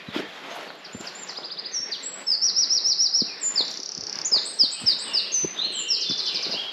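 Songbirds singing: phrase after phrase of rapid, high-pitched trills and quick runs of short chirps.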